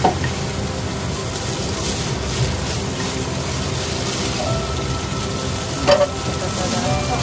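Rice vermicelli and minced pork sizzling in a hot pot while being tossed and stirred with chopsticks, over a steady low hum. There are two sharp knocks of the chopsticks on the pot, one at the start and one about six seconds in.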